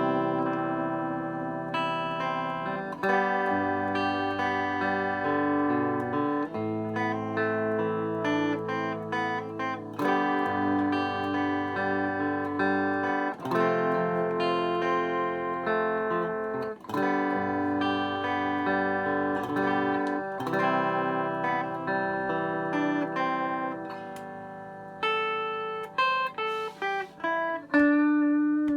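Old Japanese electric guitar played on a clean tone: ringing chords, each held about three seconds, then a run of short picked notes after a brief pause near the end. Its tremolo block has been filled with cast metal for added weight, which the player hears as clearly longer sustain.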